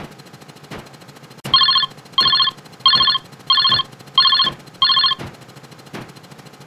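Electronic telephone ring sound effect: six short trilling rings in quick succession, starting about a second and a half in. Faint regular clicks run underneath, about one every three quarters of a second.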